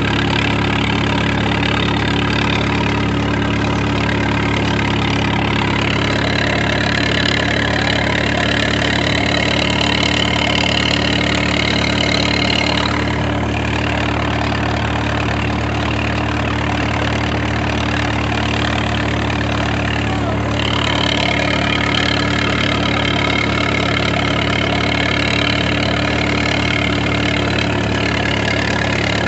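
Engine running steadily at a low, even speed. A higher-pitched layer above it drops away about 13 seconds in and comes back about 21 seconds in.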